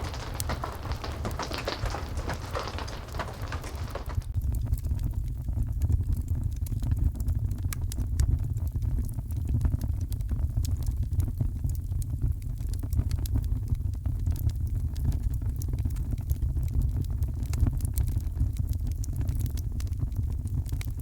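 Rain and fireplace ambience: steady rain hiss with fire crackling. About four seconds in, the rain hiss drops away abruptly, leaving a deep low rumble with scattered sharp crackles.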